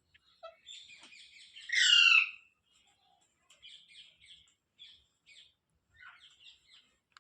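A parrot calling: a run of soft short chirps, with one loud drawn-out call about two seconds in, then more faint chirps.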